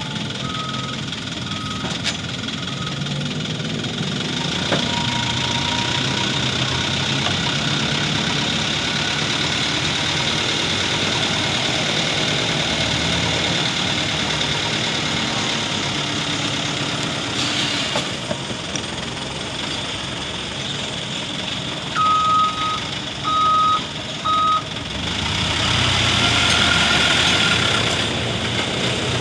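Dump truck engine running steadily while its reversing alarm beeps: a few beeps at the start, then three loud beeps a little past two-thirds through. The engine then revs louder for a few seconds near the end.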